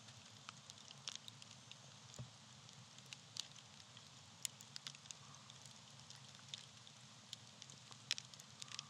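Small tree-bark campfire burning quietly, with irregular soft crackles and a few sharper pops over a faint steady hiss.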